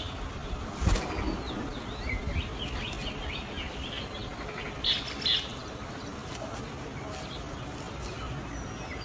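Birds at a nest: a sudden thump about a second in, then a run of rapid short high chirps and two louder sharp calls around five seconds in.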